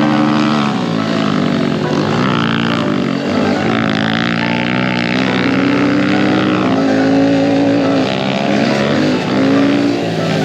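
Small pit bike engines running and revving up and down as they are ridden, their pitch rising and falling, with more than one engine heard at once.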